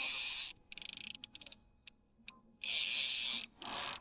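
Fishing reel ratcheting in four short bursts of rapid clicking, each under a second long, as line is cranked in or pulled out against the reel on a heavy sturgeon rig.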